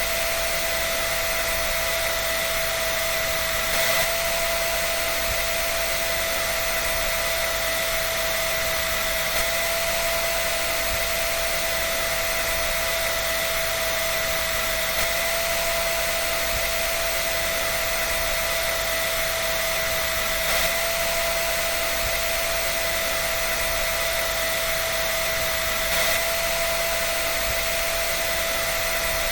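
Hair dryer running steadily: an even rushing hiss of air with a constant fan whine.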